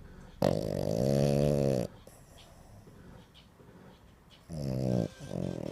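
French bulldog vocalizing: a long, low, drawn-out groaning sound of about a second and a half that dips in pitch and then holds, then a shorter one near the end.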